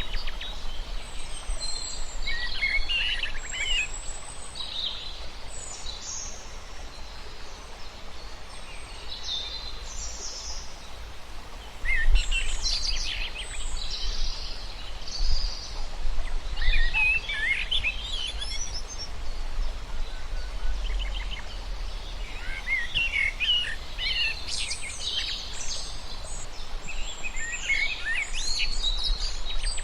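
Birds chirping and singing in bursts every few seconds, over a steady outdoor background noise with a low rumble.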